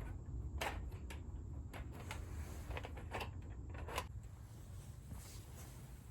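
Irregular light clicks and knocks, about seven in the first four seconds, over a steady low rumble; the knocks stop about four seconds in.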